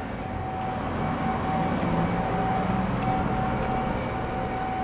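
Steady mechanical drone with a low hum and a constant thin whine above it.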